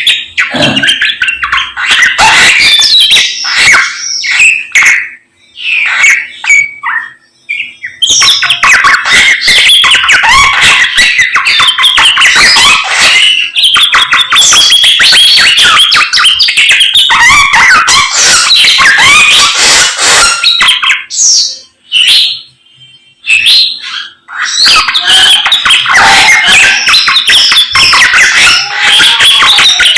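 A samyong songbird singing loudly and energetically: long runs of rapid, varied chirps and trills, broken by two short pauses, one a few seconds in and one about two-thirds of the way through.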